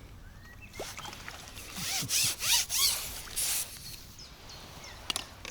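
A hooked carp-type fish splashing at the water's surface as it is drawn in and netted, a few loud splashes about two to three and a half seconds in, followed by a single sharp click near the end.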